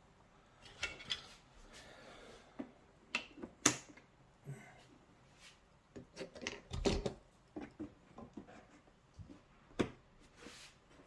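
Scattered knocks, clicks and rubbing from handling car door card trim parts while setting a glued piece in place, with a sharp click a few seconds in and a heavier thump about seven seconds in.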